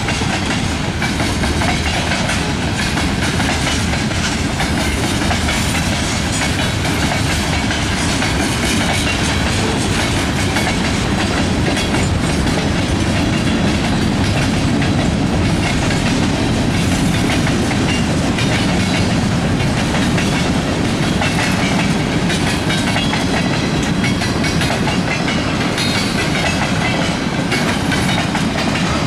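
Freight train cars (tank cars and boxcars) rolling past close by: a loud, steady rumble of steel wheels on rail with continual clicking as the wheels cross the rail joints.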